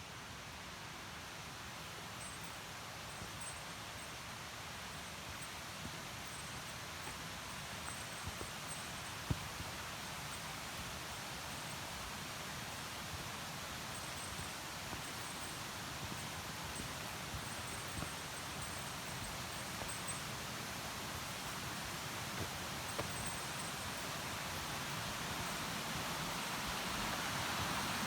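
Mountain stream running over rocks, a steady rushing hiss of water that slowly grows louder, with a few faint clicks and a faint high tone coming and going.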